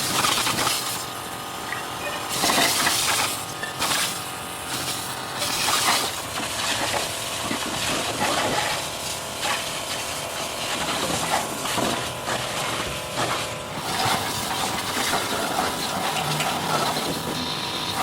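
Workshop noise: several bursts of hissing, with scattered short knocks and clicks throughout.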